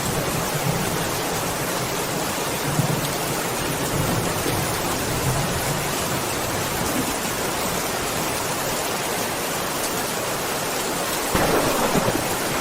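Steady rain with a low rumble of thunder; a louder roll of thunder sets in near the end.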